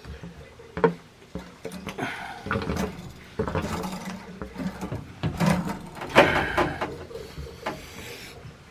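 Irregular knocks, clicks and scraping of tools and metal parts being handled while a water heater's gas control valve is swapped out, with a sharp knock a little under a second in and the loudest one about six seconds in.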